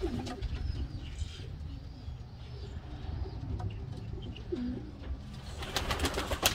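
Domestic pigeons cooing in short low calls over a steady low rumble, with a quick patter of clicks near the end.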